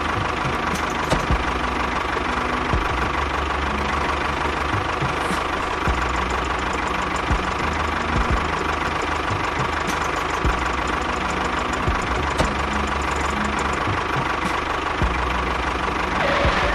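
A small engine running steadily with a knocking rattle and scattered clicks.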